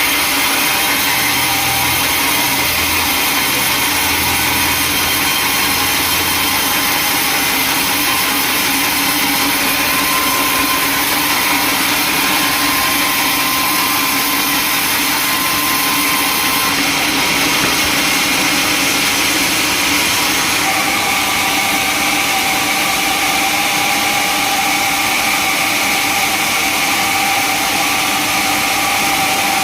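Sawmill machinery running steadily, a loud continuous mechanical drone whose tone shifts about two-thirds of the way through.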